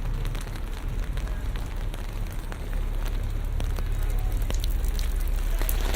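Steady rain pattering and crackling on surfaces, over a low continuous rumble of city traffic.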